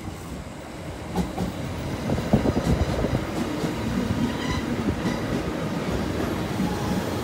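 A JR Central 211 series 5000-subseries electric train runs along the platform and its cars pass close by. It gets louder about two seconds in, with a rumble and wheels clacking over rail joints.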